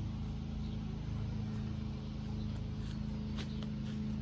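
A petrol lawnmower engine running steadily in the background, a constant low hum.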